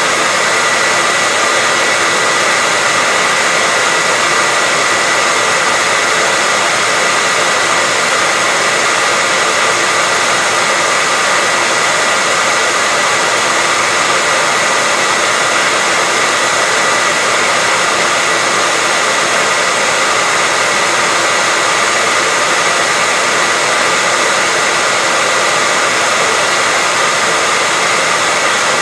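Hair dryer running continuously: a steady, loud rush of air with a faint constant whine from the motor, unchanging throughout.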